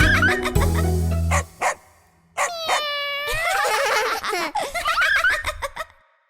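Children's song backing music ends about a second and a half in. After a short pause come cartoon vocal sound effects: one long pitched call that dips and rises, then a stretch of wavering, giggly voice sounds that die away.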